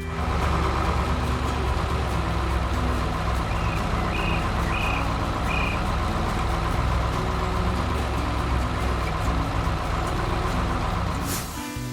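Heavy truck engine running steadily with a deep rumble, with four short high beeps about four to six seconds in.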